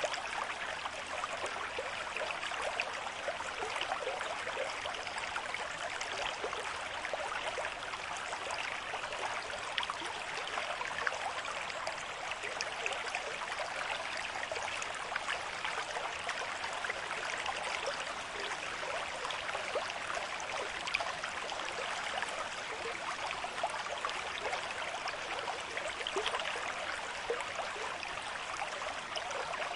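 A river stream running with a moderate flow: a steady rush of water over rocks, with constant small splashes and bubbling.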